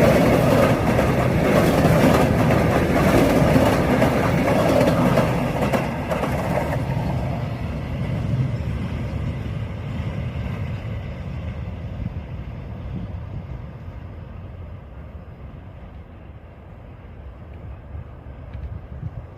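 Freight train's wagons rolling past on the rails, loud for the first six seconds or so, then fading steadily as the train moves away.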